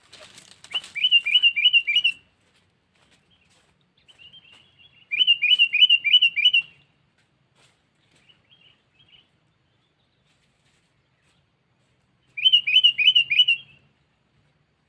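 Sooty-headed bulbul (kutilang) decoy bird calling: three bursts, each of four to six quick rising notes, with pauses of several seconds between them.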